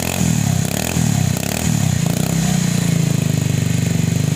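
Honda Beat scooter engine running through its gutted YRP88 aftermarket exhaust, revved up and down a few times, then held at a steadier, somewhat raised speed from about halfway.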